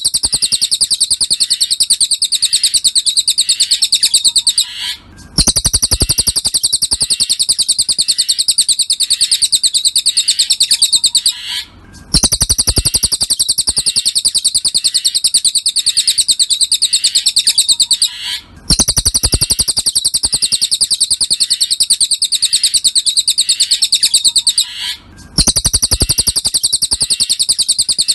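Cililin bird song: a very rapid, even, high-pitched trill repeated in long phrases of about six seconds, each broken off by a brief pause before the next starts.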